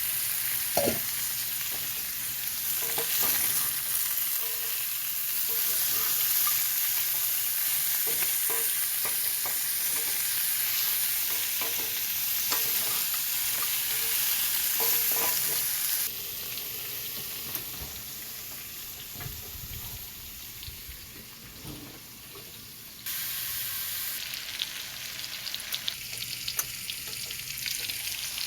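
Potato slices sizzling in olive oil in a skillet, with a few light clicks of a utensil against the pan. The sizzle drops about halfway through and comes back up near the end.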